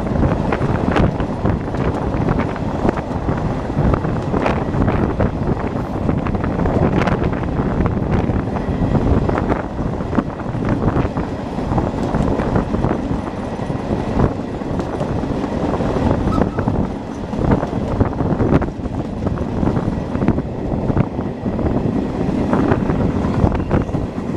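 Steam-hauled passenger train running, heard from an open carriage window: a steady rumble of wheels on rail with irregular clicks and knocks, and wind buffeting the microphone.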